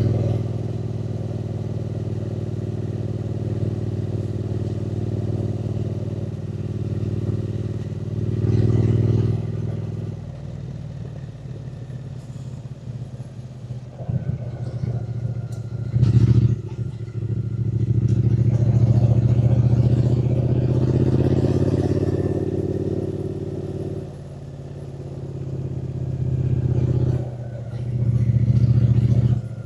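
Triumph Speed Twin 900's parallel-twin engine running under way, throttle opening and closing. It holds steady, eases off for several seconds, then pulls strongly again with short dips, like gear changes.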